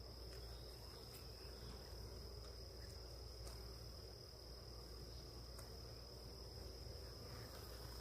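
Crickets trilling steadily, a single unbroken high-pitched tone, over a faint low hum.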